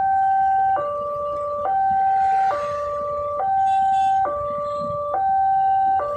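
Railway level crossing warning alarm sounding: an electronic two-tone signal switching back and forth between a higher and a lower tone, each held a little under a second, which warns that a train is approaching.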